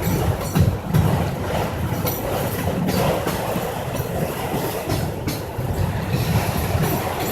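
Autorack cars of a freight auto train rolling past with a steady wheel-and-rail rumble, broken by irregular sharp clacks from the wheels.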